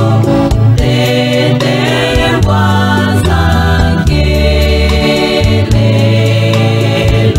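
Choir singing gospel music in harmony, over a low bass line that changes note about every second and a steady drum beat.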